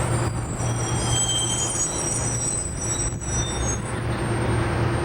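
Street traffic heard through a long tuning tube, which turns it into a steady low drone with overtone tones ringing above it. Thin high whistling tones rise and fade over a noisy wash.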